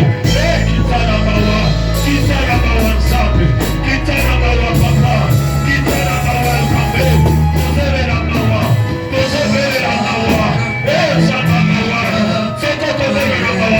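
Live church worship band playing, with held bass notes that change every second or two and singing voices in the mix.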